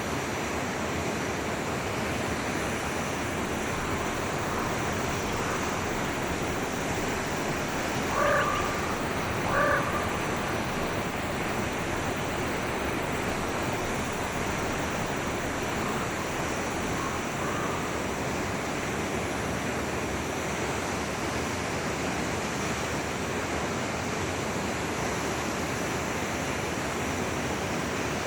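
Steady rush of a forest stream, with two short, loud animal calls about eight and ten seconds in and a few fainter calls later.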